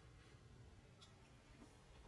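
Near silence: faint room tone with a low hum and one faint click about a second in.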